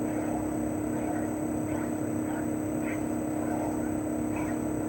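CHOFU AE-2844PX mini-split outdoor unit running steadily in cooling: the hum of its single-rotary inverter compressor (GMCC KSK89D53UEZC) under the rushing of the propeller fan, with a thin high steady tone above.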